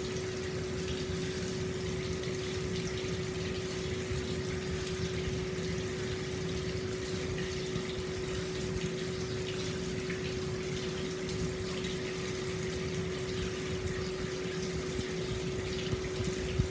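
Hot spring water pouring steadily into an open-air bath, an even splashing rush, with a steady hum running under it throughout.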